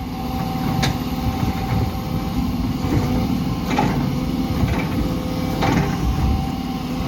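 Diesel engine of an articulated log-handling forestry machine running steadily, with a steady whine, and a few knocks as logs are handled.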